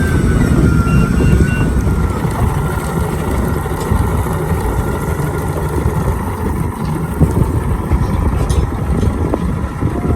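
Motorboat's engine running steadily with a loud low rumble of wind and water as the boat gets under way after the anchor is raised. A thin high whine is heard at first and fades out about two seconds in.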